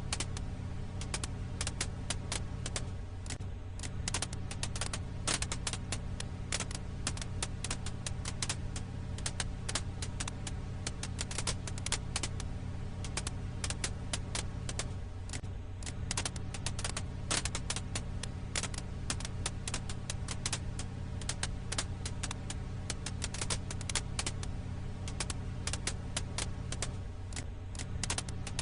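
Campfire ambience track: dense, irregular crackles and pops of burning firewood over a steady low hum. It is a short loop that repeats about every twelve seconds.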